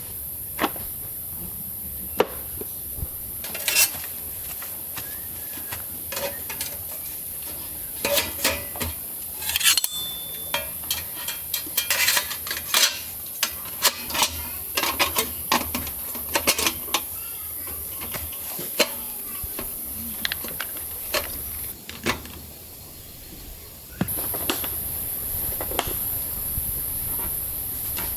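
Camp cookware and utensils clinking and knocking as they are handled, a dense run of clinks through the middle, over a steady high hiss.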